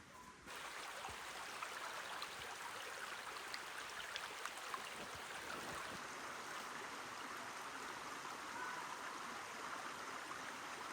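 Water running steadily, with an even rushing hiss and no change in pitch. It starts abruptly about half a second in.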